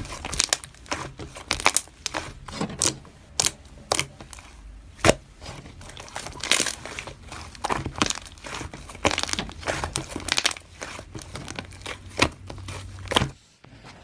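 A pet hamster rustling about in its bedding: irregular crinkling and rustling with scattered small clicks, over a low hum that cuts off near the end.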